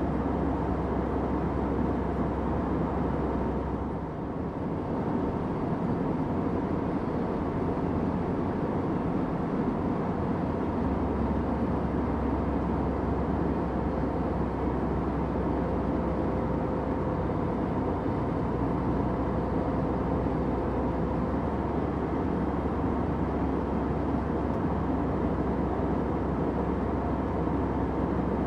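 Steady airliner cabin noise in flight: the engines and airflow as an even, low hiss, with a brief dip in level about four seconds in.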